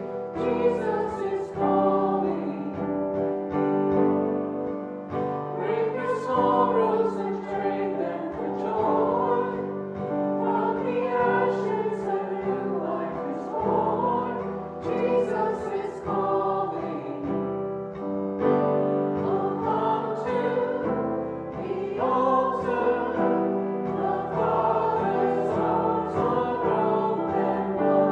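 Church choir singing sacred music with instrumental accompaniment, with sustained notes and phrases running on without a break.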